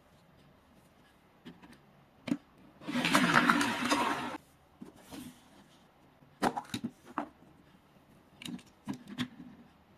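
Hands breaking open a toy mystery egg: a dense crackling, crunching burst lasting about a second and a half near the middle, with scattered sharp clicks and taps of handled plastic before and after.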